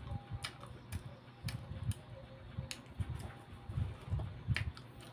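A man chewing a mouthful of peeled banana close to the microphone, with irregular soft, wet chewing sounds and sharp mouth clicks and smacks.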